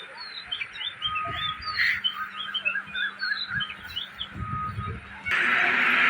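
A flock of small birds chirping, with many short, quick calls overlapping. About five seconds in it cuts abruptly to a loud, steady rushing noise.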